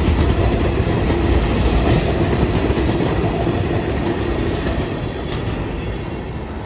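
Freight cars of a long CSX freight train rolling past, a steady rumble of steel wheels on rail with clickety-clack, easing slightly toward the end.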